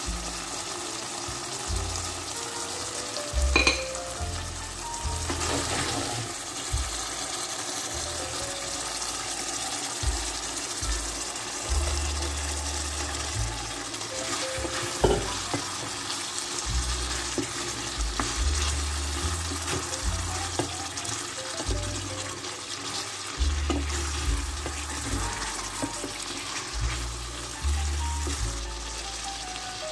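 Sauce sizzling and bubbling in a stainless steel pan while a wooden spoon stirs chicken gizzards through it, with a couple of sharp knocks, about 3.5 and 15 seconds in.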